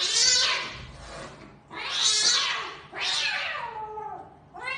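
A cat hissing, with a yowl running through the hisses: three hisses of about a second each and a short one near the end.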